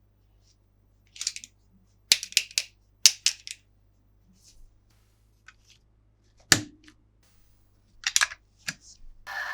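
Scattered sharp plastic clicks and snaps in small clusters, from a plastic toy and its packaging being handled, with one heavier knock about two-thirds of the way through.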